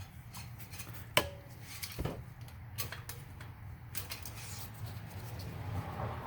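Engine oil dipstick clicking and scraping in its tube as it is pushed back in and drawn out to read the oil level: a few light metallic clicks, the sharpest about a second in.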